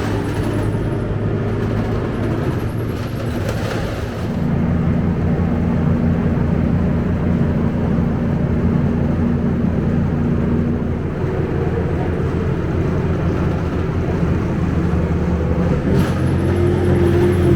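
Scania K270UB bus's diesel engine running, settling into a steady drone about four seconds in, with a higher tone rising near the end as it picks up.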